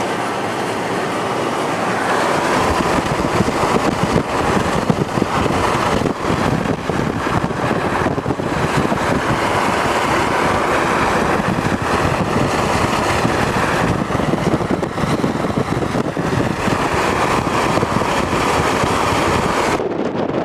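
Steady, loud noise of a car on the move, thickening in the low end about two seconds in and changing abruptly near the end.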